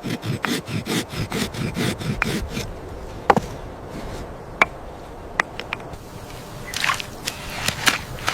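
A quick run of thuds and knocks, about five a second, followed by a few scattered sharp cracks and a short cluster of cracks near the end.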